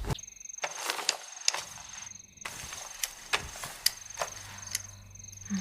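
A cricket trilling steadily at a high pitch, with scattered light wooden clicks and knocks.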